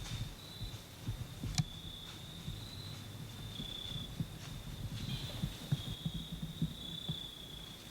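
Continuous high, steady trill of insects, shifting slightly in pitch as several overlap, over a low faint rumble with soft thumps. A single sharp click about a second and a half in.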